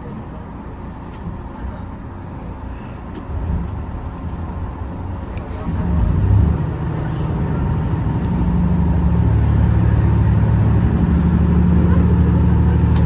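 HB-E210 series hybrid diesel railcar running, heard from on board. About six seconds in, low steady engine tones come in and the sound grows louder, staying at that level as the train works harder.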